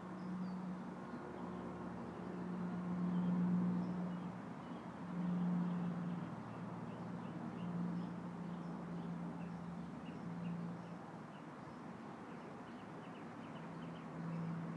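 Tree leaves rustling in a light breeze, with small birds chirping faintly, the chirps growing busier near the end. A low hum swells and fades several times underneath.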